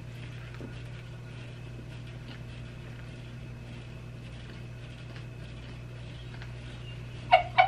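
People chewing sandwiches quietly over a steady low room hum, with faint scattered mouth clicks. Near the end come three short, loud voice sounds in quick succession.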